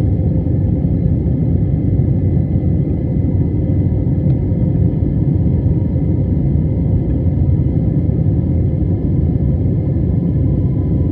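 Jet airliner's engines running, a steady low rumble that holds level, with a few faint steady whining tones above it.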